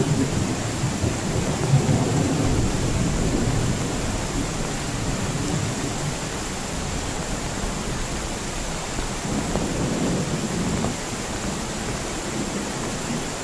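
Heavy rain falling steadily, with rolling thunder rumbling through the first few seconds and again about ten seconds in.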